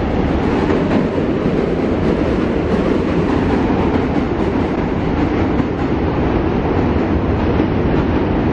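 Train passing with a steady, unbroken rumble.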